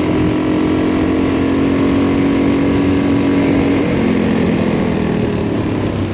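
Adventure motorcycle engine running at a steady cruise with wind rush around it. The engine note drops to a lower pitch about four seconds in as the throttle eases off.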